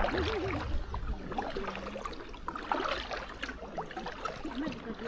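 Kayak paddling: water splashing and trickling off the paddle blades in irregular small splashes.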